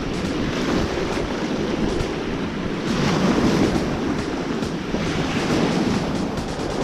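Ocean surf washing onto the beach, with wind buffeting the microphone; the wash swells a little about three seconds in.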